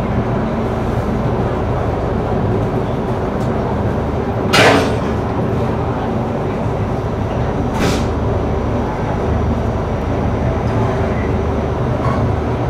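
Diesel-hauled passenger train heard from inside a carriage, moving slowly: a steady low rumble. Two short hisses come about three seconds apart, and the first is the louder.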